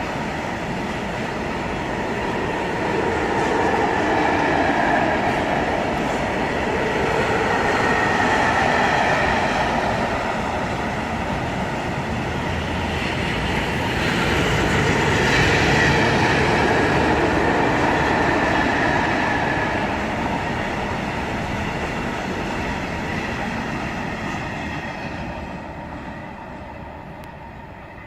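A freight train rolling past on the rails, its wagons making a continuous rumble and rattle that swells and eases several times, then fades away over the last several seconds as the train moves off.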